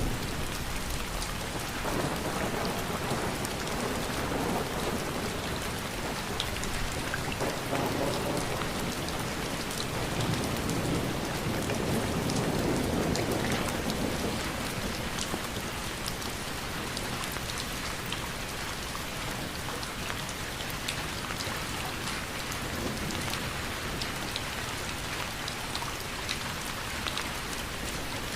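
Steady rain falling, with many small drop ticks through it, and a low rumble that swells and fades over the first half.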